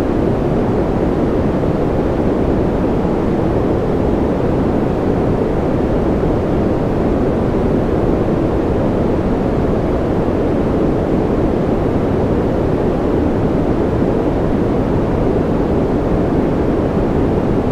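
Steady white-noise track, deep and muffled, with most of its weight low down and little hiss up high. It does not change and has no separate events or rhythm.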